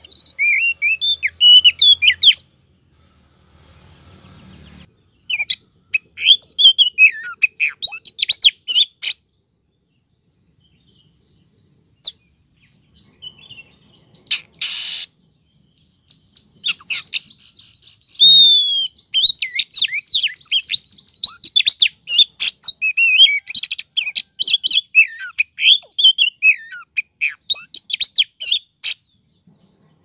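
Oriental magpie-robin (kacer) singing: bursts of fast, varied whistled phrases that sweep up and down, separated by pauses of a few seconds. There is one short harsh noisy note about halfway, then a long unbroken run of song.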